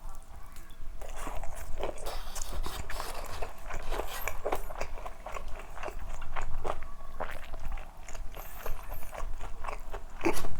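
Crunching bites and chewing of crispy KFC fried food: many irregular crunches, with the loudest near the end.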